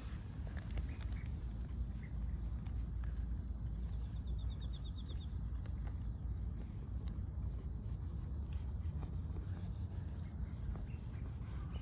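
Outdoor ambience: a low rumble of wind on the microphone under a steady high insect drone, with a short rapid insect trill about four seconds in and scattered faint clicks.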